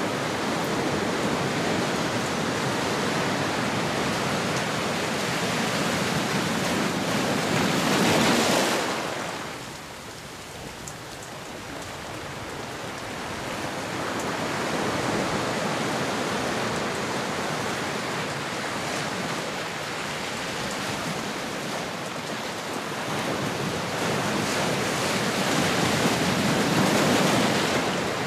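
Ocean waves washing on a shore: a steady rush of surf that swells to a peak about eight seconds in, falls away, then builds slowly to another swell near the end.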